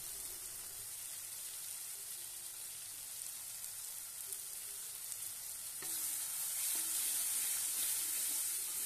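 Ground spice paste sizzling as it fries in a wok, while a metal spoon stirs it. The sizzle grows louder about six seconds in.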